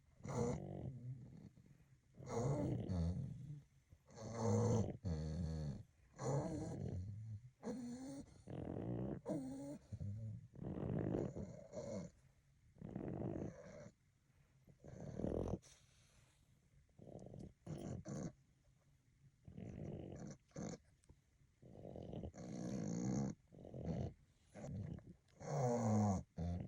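Two sleeping dogs snoring, with irregular, overlapping rattling snores and snorts about every second or two.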